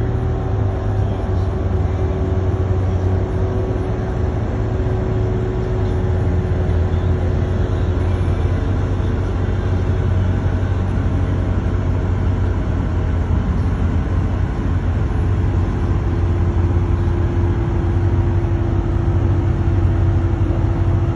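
A car running steadily, a continuous low engine and road drone with no change in pitch.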